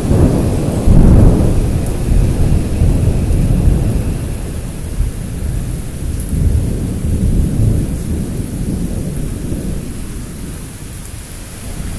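Thunder rumbling, loudest in the first couple of seconds and dying away slowly, over steady rain.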